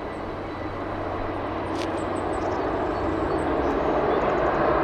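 Jet airliner engine noise, a steady rushing sound that grows gradually louder as the aircraft comes closer.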